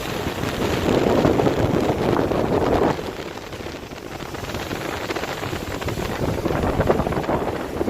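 Wind buffeting the microphone on a moving boat, with rushing water under it. A strong gust lasts about three seconds, drops off suddenly, then builds again near the end.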